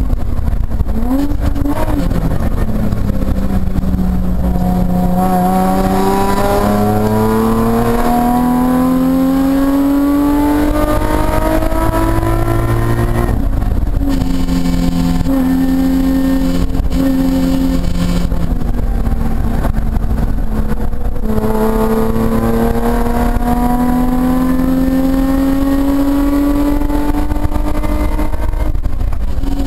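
Nissan 350Z's V6 engine heard from inside the cabin under hard track driving. It revs up in a long pull with an upshift a little under halfway through, eases off around two-thirds in, then climbs again to another upshift near the end.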